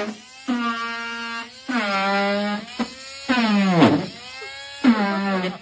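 Old Ford power steering pump groaning and whining as the steering wheel is turned, in four wavering, pitched moans of about a second each, one falling in pitch midway. The noise is typical of a tired power steering pump straining under load.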